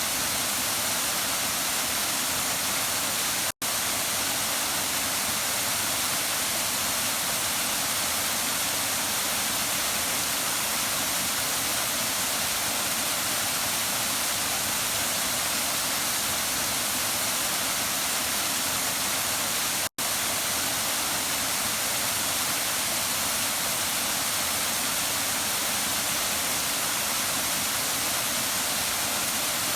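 Waterfall rushing steadily, an even hiss heaviest in the high range. It cuts out for a split second twice, once early and once about two-thirds of the way through.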